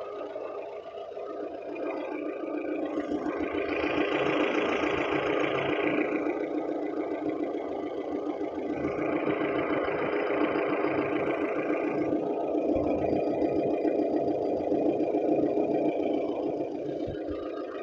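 Lada Kalina four-cylinder petrol engine running. It picks up about two seconds in and eases back down near the end.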